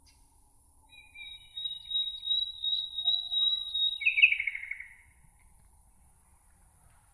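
A songbird singing one phrase: a long, thin, held high whistle, then a quick falling trill that ends about five seconds in.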